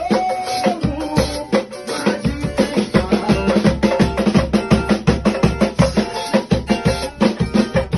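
A band playing an upbeat Pentecostal 'corinho de fogo' worship chorus, with drums keeping a fast, steady beat under sustained melody notes.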